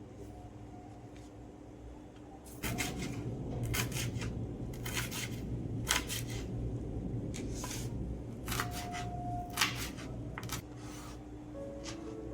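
Clicks and clatter of kitchen utensils and dishes being handled, with a denser run of handling noise starting about two and a half seconds in and easing off near the end.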